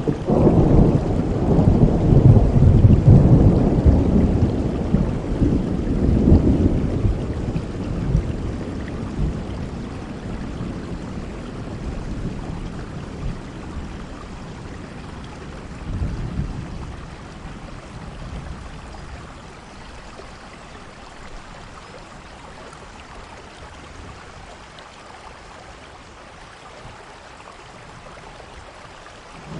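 Rolling thunder rumbling over steady heavy rain. The thunder is loudest in the first seven seconds, swells briefly again about sixteen seconds in, then dies away and leaves the rain hissing.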